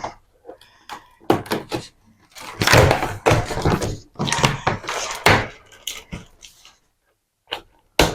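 Irregular knocks, thuds and rustling from a boxed microwave and its cardboard packaging being handled and opened.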